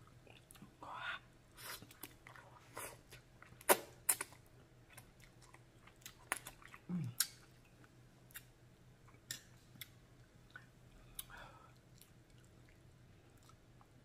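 Close-miked chewing of jjajang rapokki, ramen noodles and sticky rice cakes in black bean sauce, with irregular wet mouth smacks and clicks; the loudest are two sharp smacks about four seconds in. A short low hum that falls in pitch comes about seven seconds in.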